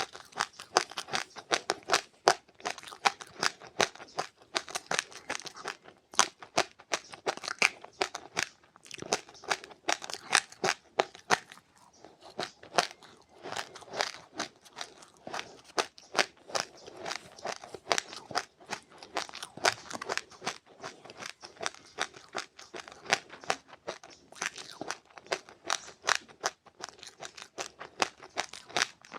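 Close-up crunching and chewing of seeds: a rapid run of sharp, crackling crunches, several a second, with only brief pauses.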